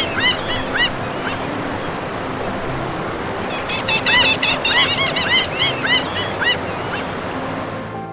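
Birds calling in rapid series of short, honk-like notes, in two bouts: one fading out about a second in, another from about four to six and a half seconds, over a steady rushing background.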